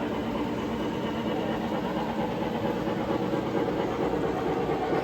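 Model trains running on a museum layout, a steady running noise of motors and wheels on the track.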